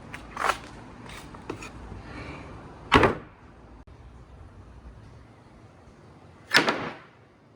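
Marbles rolling down a four-tier slope marble run, a steady faint rumble broken by sharp clacks as they drop and hit the track, the loudest about three seconds in and again near the end.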